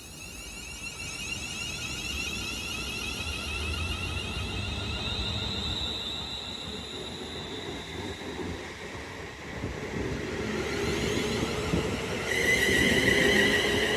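Train running on the line: a low rumble under several high steady whining tones, growing louder, with a stronger whine coming in near the end.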